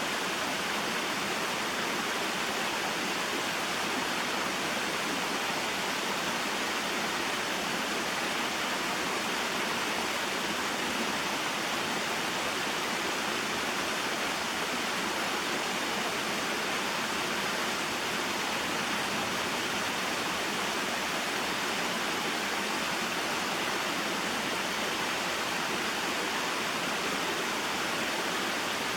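Small waterfall and mountain stream: water pouring and rushing over rocks in a steady, unbroken hiss.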